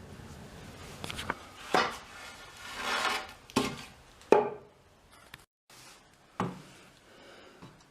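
Handwork on hard parts: a few sharp knocks and clatters, with a short rubbing or scraping stroke about three seconds in.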